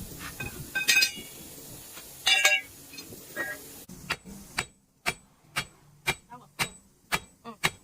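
Metal being struck: two loud ringing clangs, then regular sharp hammer-like blows about two a second.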